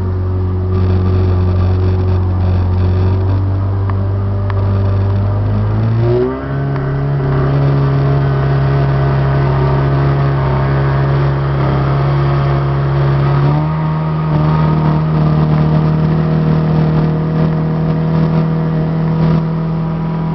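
35-horsepower boat motor running under way, its pitch stepping up as the throttle is opened, once about six seconds in and again around thirteen seconds.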